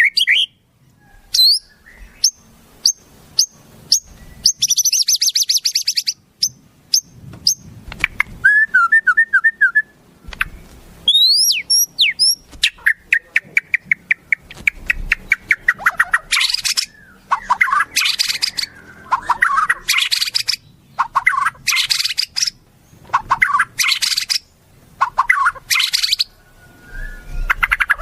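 Wild songbirds calling and singing: a varied string of sharp chirps, quick trills and rising whistles, then from about halfway through a run of harsh, buzzy notes repeated roughly once a second.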